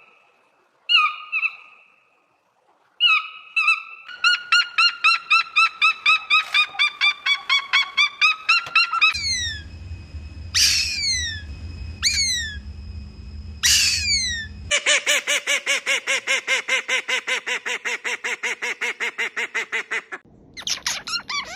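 Different birds calling in clips cut one after another. First come a few short calls, then a fast run of repeated notes. Then come single sharp downward-sliding calls about every second and a half over a low hum, and finally another fast run of repeated notes.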